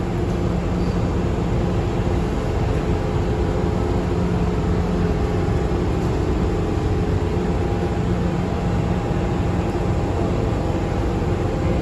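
Interior running noise of an MTR M-train electric multiple unit travelling at steady speed between stations: an even rumble with a few constant humming tones.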